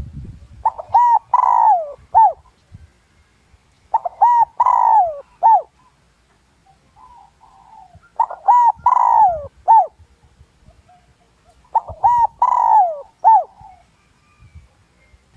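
Spotted dove cooing its song four times, each phrase a few short coos around one longer, falling coo, repeated about every four seconds. It is a decoy bird's call, used to provoke wild male spotted doves into answering and coming in to fight.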